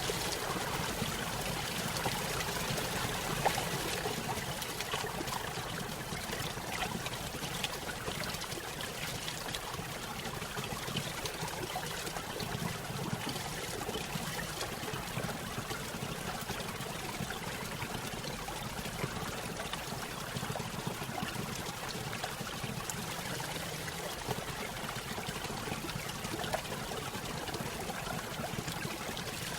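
Small stream running over a little waterfall: a steady trickling and splashing of water with many small droplet ticks.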